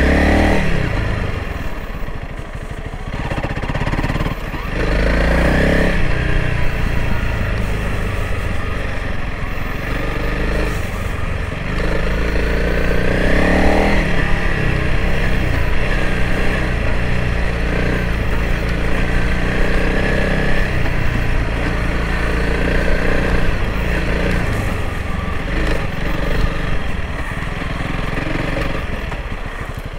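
Honda CRF300L Rally's single-cylinder four-stroke engine running as the motorcycle is ridden off-road, the engine speed rising and falling with the throttle.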